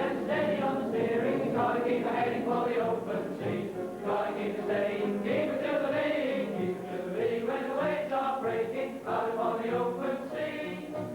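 Background music of a choir singing, with long held notes.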